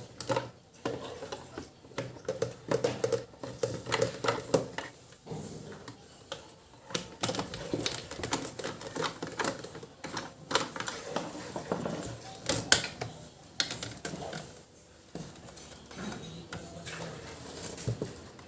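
Irregular clicks, taps and rattles of a plastic LED emergency light's casing being handled and opened with hand tools.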